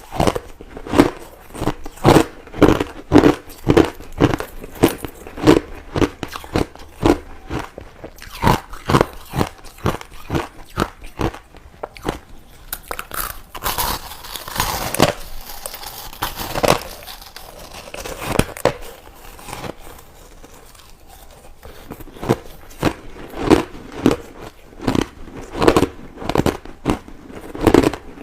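Crushed ice being chewed: crisp crunches about twice a second, a denser, noisier stretch of crunching midway, a short lull, then regular crunching again.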